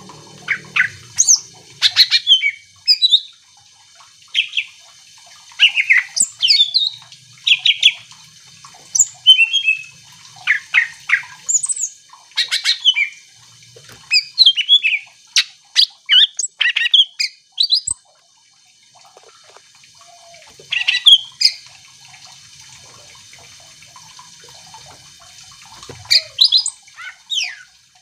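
Greater green leafbird (cucak ijo) singing hard: quick runs of short whistled, sweeping and chattering notes. It breaks off for about two seconds past the middle, then sings a few more phrases.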